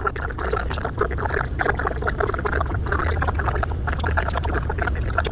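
A tour guide's voice coming through the cruise boat's loudspeaker, muffled and with no clear words, over the steady low rumble of the boat under way.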